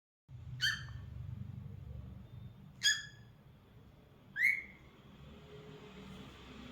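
Cockatiel giving three short whistled calls about two seconds apart, the last one sliding down in pitch.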